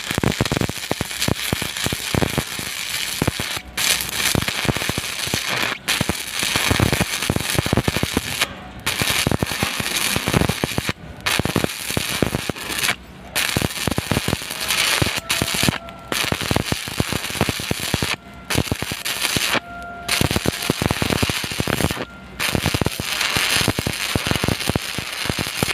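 Stick (SMAW) welding arc crackling steadily, with brief breaks where the arc goes quiet about every two to three seconds.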